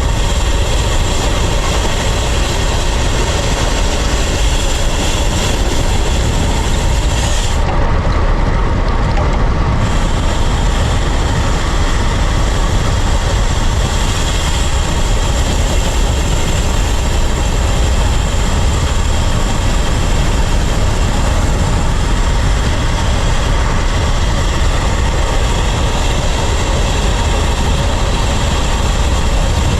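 Steady wind and rolling noise from riding a bicycle, picked up by a GoPro's microphone, with a heavy low rumble of wind buffeting. The hiss above it dulls for about two seconds around eight seconds in.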